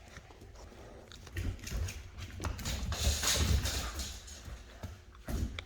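Rottweiler puppies playing and scuffling: scattered knocks, scrapes and clicks, busiest in the middle.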